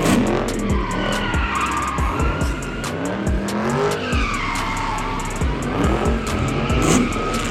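Car tires squealing and an engine running with rising and falling pitch, as in a burnout, over background music with a steady beat.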